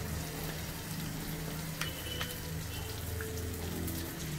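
Onions, tomato and spices frying in oil in a kadai, a steady sizzle as a ground paste is scraped in from a wooden spoon, over a low steady hum. A couple of light clicks come about two seconds in.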